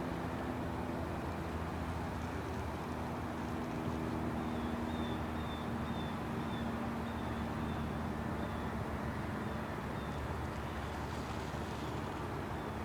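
A steady low mechanical hum, with a faint high chirp repeating about twice a second through the middle.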